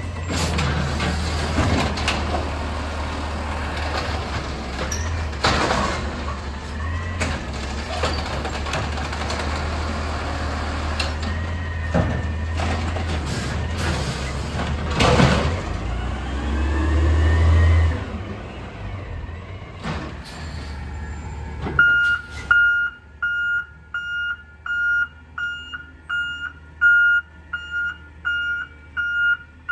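Amrep garbage truck's engine running with mechanical working noise and a couple of sharp hisses, revving up near the 17-second mark and then easing off. From about 22 seconds in, its reversing alarm beeps steadily, about one beep a second.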